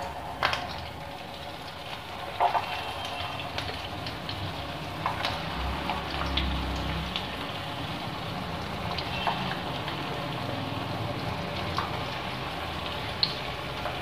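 Potato fingers deep-frying in hot oil: a steady sizzle and bubbling, with scattered crackles and a few louder pops.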